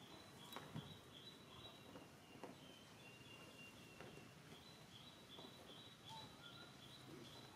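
Faint bird calling in the background: a long series of short, high notes, about three a second, alternating between two pitches.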